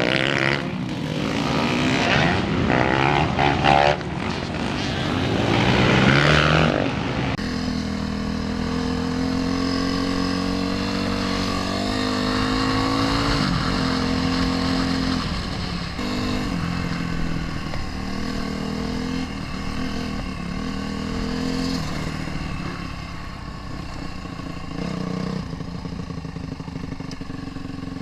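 Motocross dirt bike engines revving hard, their pitch rising and falling. About seven seconds in the sound changes abruptly to a steadier engine note that steps up and down.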